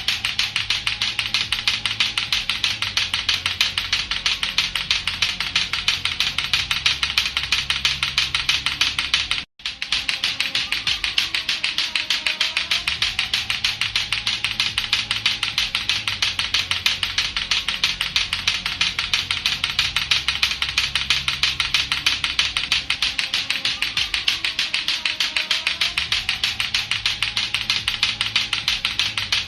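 Latto-latto clacker balls knocking together in a rapid, even clacking that keeps going, over a low musical drone. The sound cuts out for an instant about nine and a half seconds in, then resumes.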